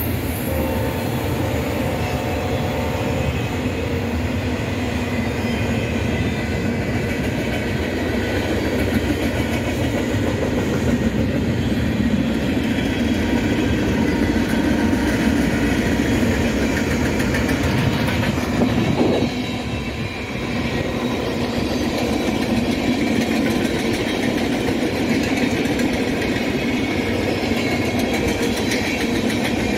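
Cars of a mixed freight train rolling past, a steady rumble of steel wheels on rail, dipping briefly about two-thirds of the way in.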